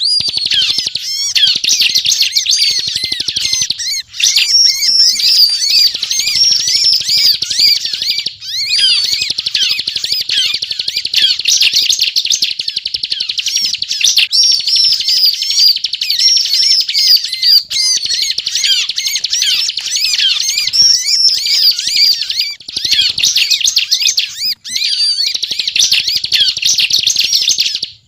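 Bar-winged prinia (ciblek) singing non-stop in the rapid, rattling 'ngebren' style: a dense stream of high chirping notes, broken only by a few short pauses.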